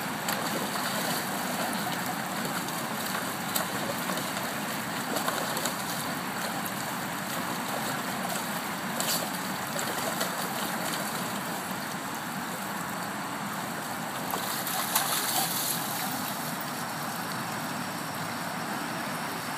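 Steady rush of running water, as from a tap or shower filling a bath, with a few short knocks or splashes.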